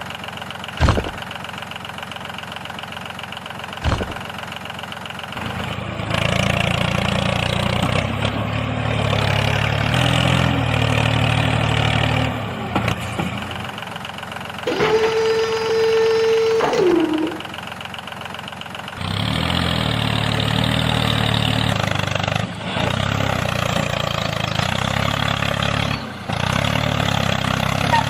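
Tractor engine running steadily in two long stretches, with a pause between them. Two sharp knocks come before it starts, and in the pause there is a held tone that bends down at the end.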